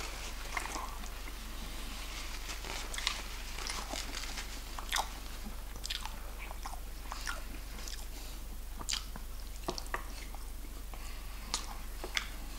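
Close-up chewing of fried chicken, with a dozen or so short, crisp crunches and wet mouth clicks scattered unevenly.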